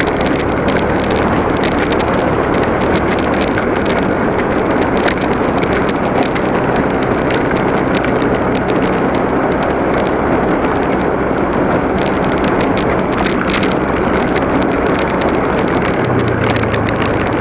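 Motorcycle riding along: the engine runs steadily under heavy wind and road noise, with scattered small clicks and rattles. The engine note changes about a second before the end.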